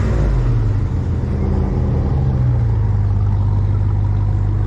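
Supercharged 6.2-litre V8 car engine idling steadily after being revved.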